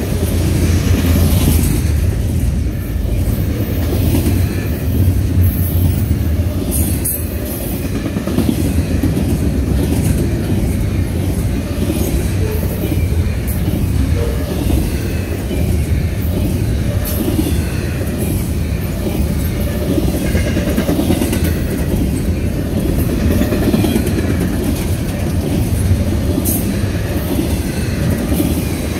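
Cars of a CSX double-stack intermodal freight train rolling past, a steady rumble of steel wheels on the rails with clickety-clack.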